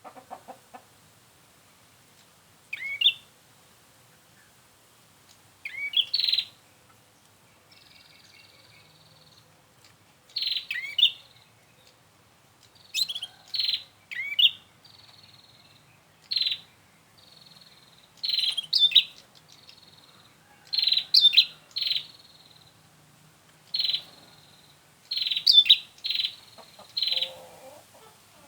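Prinia (prenjak) calling: sharp high chirps in short clusters every two or three seconds, alternating with a thin, even buzzing note held for about a second.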